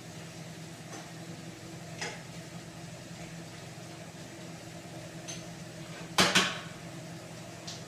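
Kitchenware being handled: a few light clicks and, a little after six seconds, a louder double clatter, over a steady low hum.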